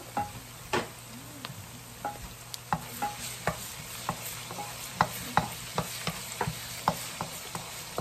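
Garlic, onion, ginger, chili and green onion sizzling in oil in a nonstick wok while a wooden spatula stirs them, tapping and scraping against the pan in repeated quick knocks, about two to three a second from about two seconds in.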